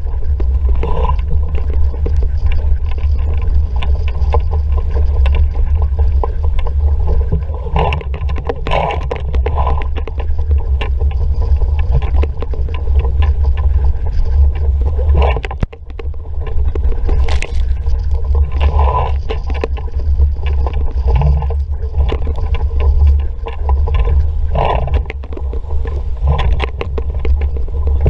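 Wind buffeting the microphone as an RS Vareo sailing dinghy moves at speed, with water rushing and slapping against the hull. The deep wind rumble is the loudest part, with frequent splashes and knocks over it and a brief lull about sixteen seconds in.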